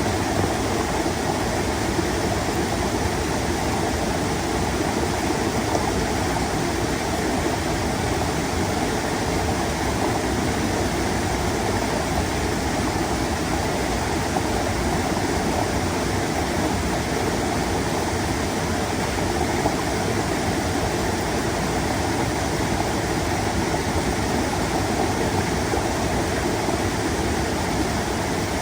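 Mountain stream flowing and trickling over rocks: a steady, unbroken rush of water.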